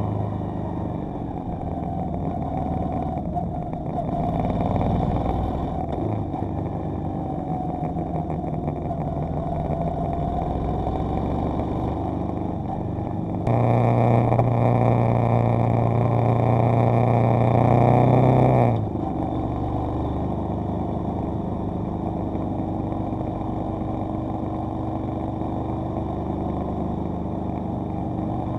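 Motorcycle engine running steadily while riding at road speed, with wind rumble on a camera mounted on the bike. The sound jumps louder for about five seconds in the middle, then drops back.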